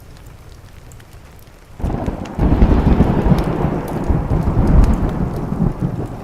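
Thunder rolling over steady rain. About two seconds in, a deep rumble breaks in suddenly, swells and stays loud, then eases off near the end, with light ticks scattered through the rain.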